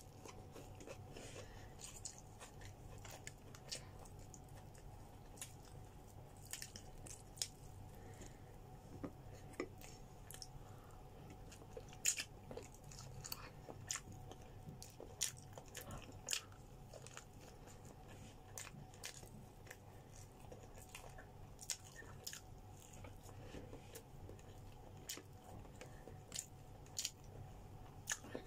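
A person chewing and biting grilled chicken, with frequent small, irregular wet mouth clicks and smacks, over a faint steady hum.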